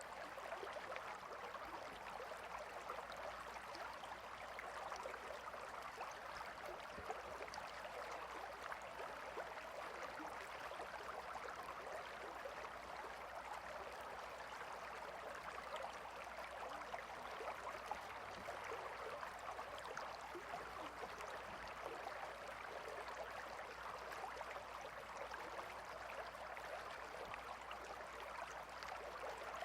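Gentle river water flowing steadily, a continuous soft rushing with fine trickling and bubbling detail.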